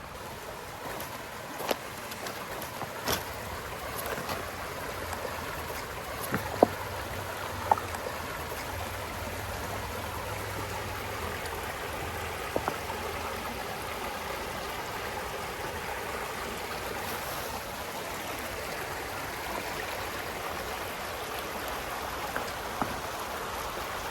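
A creek's rushing water: a steady rush that grows louder over the first few seconds and then holds. A few sharp clicks and knocks stand out over it in the first third.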